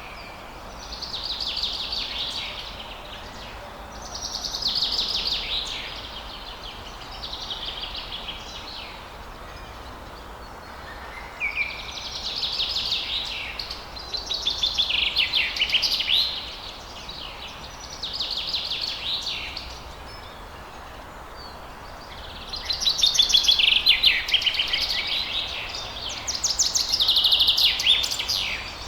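Songbirds singing in repeated short phrases of rapid, high trills and warbles, each a second or two long with brief pauses between, over a steady faint background hiss.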